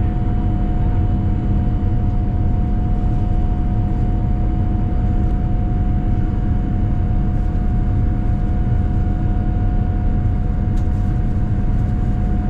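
Boeing 787-9 cabin noise: the GEnx engines and the rushing air make a steady deep rumble, with a steady whine over it.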